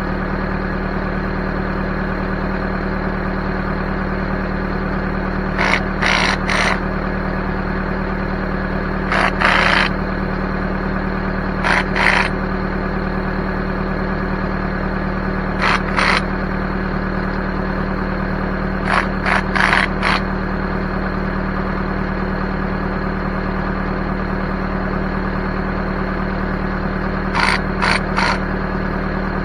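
Backhoe engine running steadily, broken six times by clusters of short, brighter bursts of noise.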